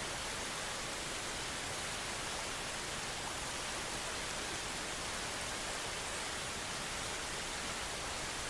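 Steady, even outdoor hiss of a forested river valley, with no distinct events.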